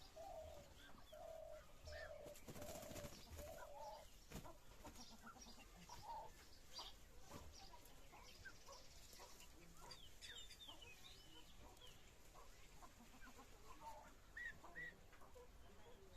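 Faint clucking calls of kalij pheasants. A run of about five short, low clucks comes in the first four seconds, followed by scattered short, higher chirps.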